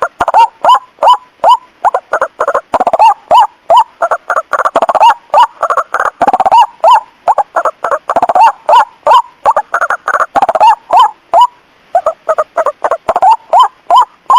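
White-breasted waterhen (ruak-ruak) calls played as a loud lure recording: a rapid run of short repeated notes, several a second. In the middle they grow denser and overlap like a chorus, then thin out again near the end.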